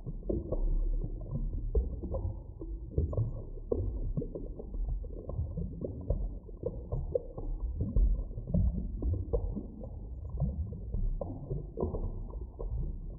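Muffled deep-water ambience: a steady low rumble with many short bubbling pops and knocks, several a second, and nothing heard above a dull low range.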